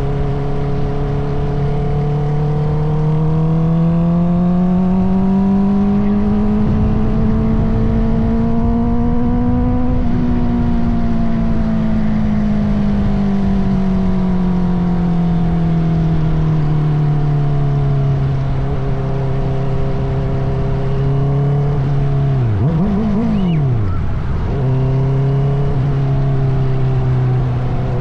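Honda CBR650R's inline-four engine running through an Akrapovic titanium exhaust while riding. The engine note climbs steadily for about ten seconds, eases slowly back down and holds steady. About 22 seconds in it dips, then revs briefly up and down before settling again.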